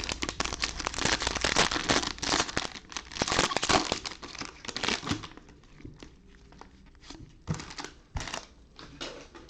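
A trading card pack's plastic wrapper being torn open and crinkled. The dense crinkling dies down after about five seconds, leaving a few light clicks.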